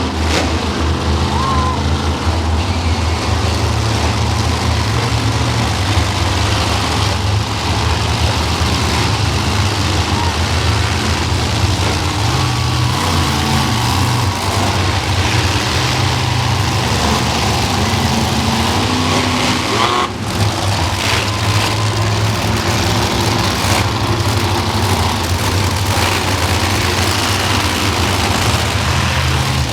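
Monster truck engines running near idle: a loud, steady low drone with slight changes in pitch.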